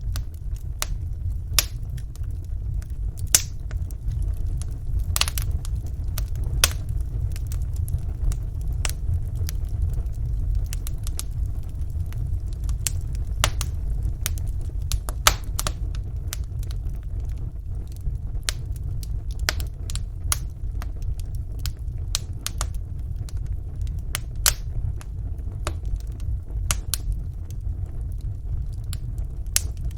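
Wood fire burning in a fireplace: a steady low rumble of the flames with many sharp, irregular crackles and pops of the burning logs.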